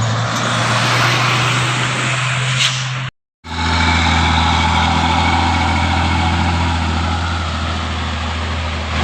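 Diesel truck engine running steadily under load. A little after three seconds in the sound drops out completely for a moment, then the engine resumes at a lower pitch with a steady whine above it.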